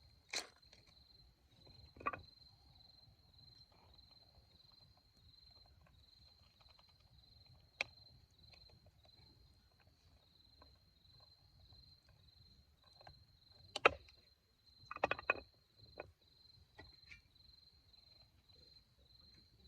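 An insect, likely a cricket, chirping faintly and steadily in a high, evenly repeating pulse. A few sharp clicks and knocks come over it, the loudest about fourteen seconds in, followed by a short cluster.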